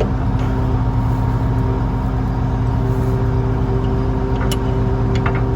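Engine running at a steady speed: an even, continuous drone with a few light clicks over it.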